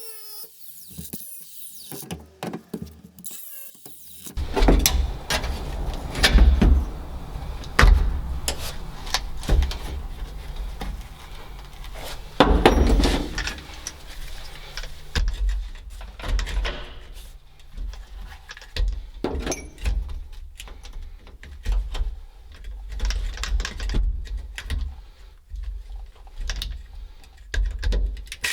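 Hand-tool work on the rusted floor of an old Mack truck cab: irregular metal knocks, thumps and scraping, starting about four seconds in.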